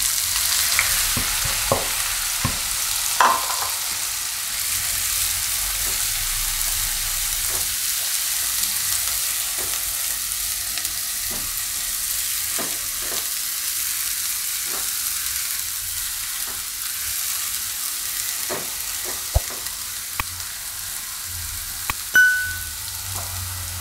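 Chopped green garlic sizzling in hot ghee in a kadai, frying steadily while a spatula stirs it, with scattered soft knocks of the spatula against the pan. The sizzle is loudest in the first few seconds, as the garlic goes into the ghee.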